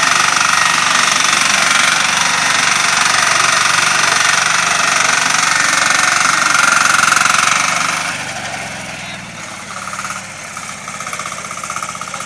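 Engine-driven corn harvesting machine running with a rapid, rattling knock. It is loud until about two-thirds of the way through, then drops noticeably quieter, leaving a fast, even pulsing.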